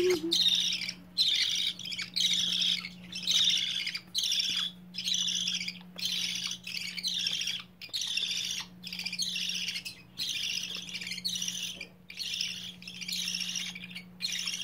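Baby budgies (budgerigar chicks) giving rhythmic raspy begging calls, about one and a half a second, the chicks' hunger call even with full crops. A faint steady low hum runs underneath.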